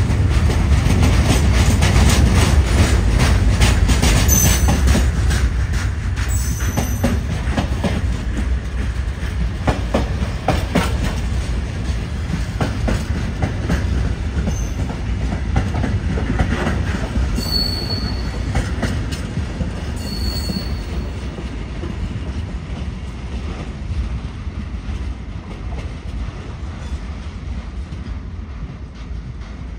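Long freight train of loaded wagons rolling past at about 30 km/h: a steady low rumble with wheels clicking over rail joints and a few short high wheel squeals partway through. The sound fades gradually as the tail of the train moves away.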